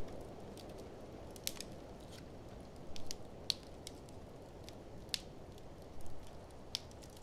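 Wood fire crackling, with irregular sharp pops and snaps, over a steady low rush of blizzard wind.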